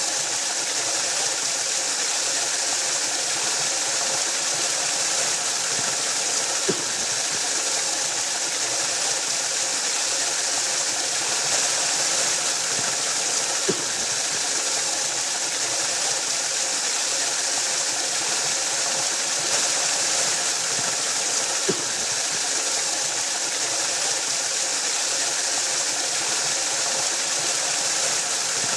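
Waterfall rushing in a steady, bright hiss of falling water, with a small click about every seven to eight seconds.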